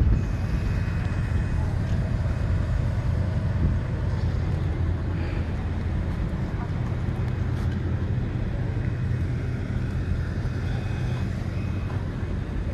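Steady low engine rumble with a constant, unchanging pitch.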